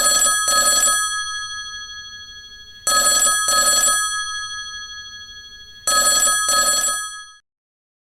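Old bell telephone ringing in the British double-ring pattern: three rings of two short bursts each, about three seconds apart, the bell tone fading after each pair and stopping a little before the end.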